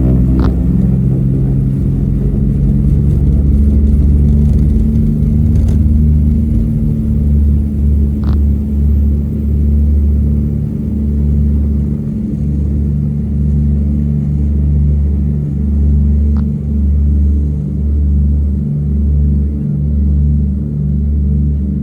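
Twin Pratt & Whitney R-1830 radial engines of a Douglas DC-3 running steadily, heard as a deep drone. After a few seconds it takes on a slow throb of about one pulse a second, the beat of the two propellers turning at slightly different speeds.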